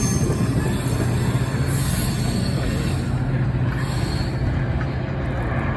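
MARC commuter train rolling past and away, a steady low rumble and hum that fades slightly, with brief high wheel squeals about two and four seconds in.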